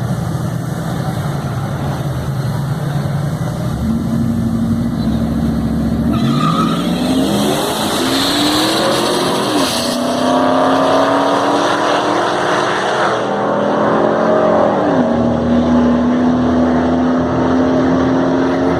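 Supercharged Ford F-150 Lightning pickup V8s at full throttle in a drag race. About six seconds in the engine note starts climbing, falls back at each gear change and climbs again, several times over.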